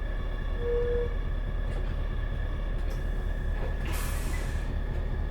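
Isuzu Erga (KL-LV380L1) city bus idling at a stop: a steady low engine hum with faint steady whines. A short tone sounds about a second in, and a brief hiss of air about four seconds in.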